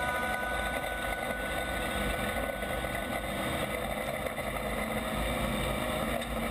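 WISSOTA Midwest Modified dirt-track race cars' V8 engines running on the track, a steady mixed drone of several engines.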